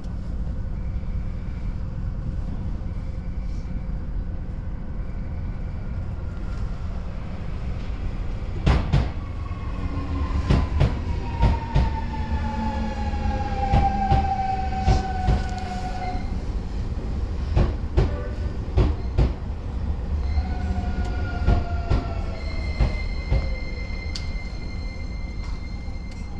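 Steady low hum of a standing electric train, then from about a third of the way in, another electric train running in beside it: wheels clacking over rail joints and a motor whine that falls in pitch as it slows. Near the end a steady high squeal comes in as it brakes to a stop.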